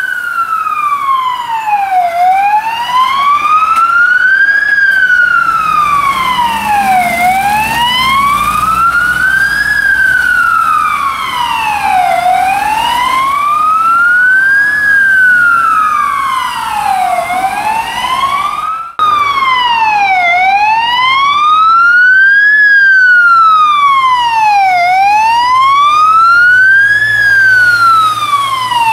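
Fire engine siren sounding a slow wail, its pitch rising and falling about once every five seconds, with an abrupt break about two-thirds of the way through after which the wail carries on.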